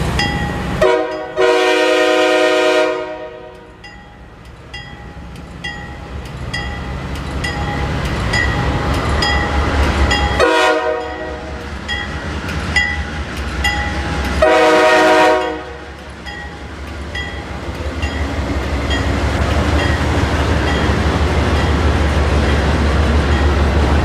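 Diesel locomotive horn blowing four blasts for a grade crossing: a short one and a long one about a second in, another short one near the middle, and a longer one a few seconds later. A crossing bell pings steadily throughout. The locomotive's engine rumble and the wheels on the rails grow louder in the second half as the train comes up.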